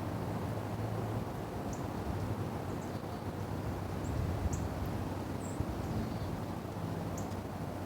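Short, high-pitched chirps from small birds, about six scattered across several seconds, over a steady low rumble.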